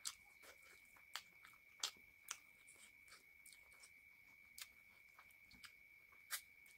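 Close-miked chewing of a mouthful of rice and chicken curry eaten by hand, with wet mouth clicks and lip smacks. The sharpest come about a second in, twice around two seconds, and near the end. A faint steady high-pitched tone runs underneath.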